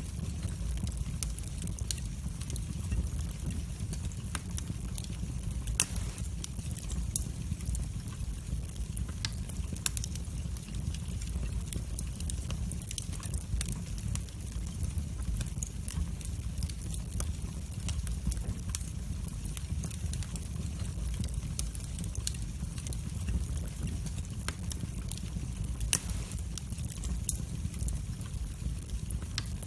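Wood fire burning in a fireplace: a steady low rumble of flames with frequent small crackles and pops, and two louder pops, about six seconds in and near the end.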